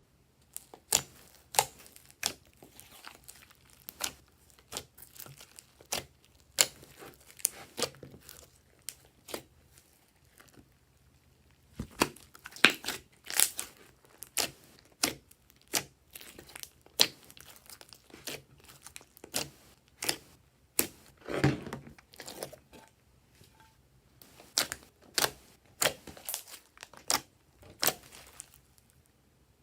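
Glossy slime being worked by hand, giving sharp, sticky pops and crackles at an irregular pace, with a short lull about ten seconds in.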